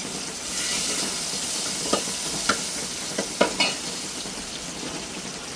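A steady hiss that comes up suddenly about half a second in, with a handful of sharp clicks or taps in the middle.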